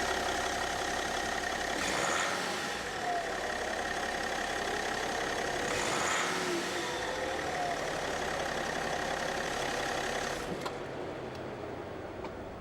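BMW 530d's three-litre straight-six diesel engine idling, heard across several spliced shots with abrupt changes. Near the end it gives way to a quieter, duller sound.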